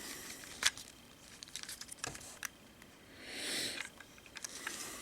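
Hard plastic parts of a Transformers Heatwave action figure being handled during transformation: a few scattered light clicks and one soft rustling scrape about three and a half seconds in.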